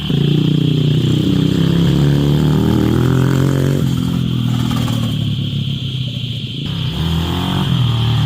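A small engine running, revving up at the start and shifting pitch as the throttle is opened and eased off.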